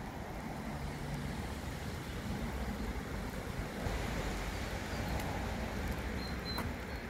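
Steady hiss of rain with wind rumbling on the microphone, and a faint short high chirp near the end.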